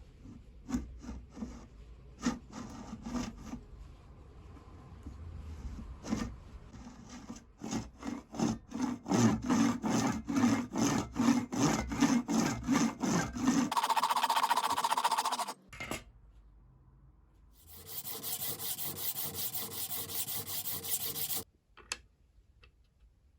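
Hand rubbing against wood: quick back-and-forth strokes, about two or three a second, for several seconds. Then comes a short steadier scratch, and after a pause a few seconds of continuous fine scratchy rubbing that stops suddenly.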